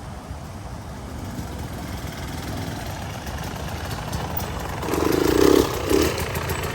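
Dirt bike engines coming in, growing steadily louder as the bikes approach and loudest about five seconds in.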